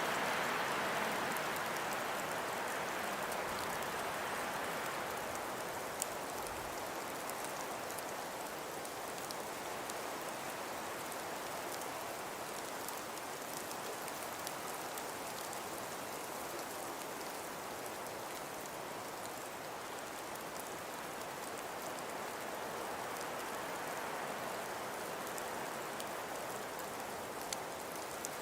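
Snowstorm ambience: a steady hiss of wind that swells at the start, eases, and builds again near the end, with a couple of faint ticks.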